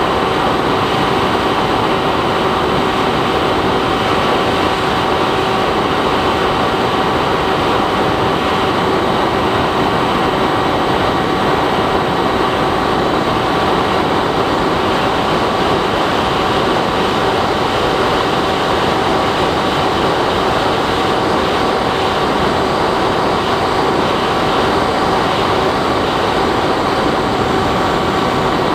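Bixler 3 RC plane's pusher electric motor and propeller running steadily in flight, a constant whine with several fixed tones over rushing airflow, heard from a camera on board the plane.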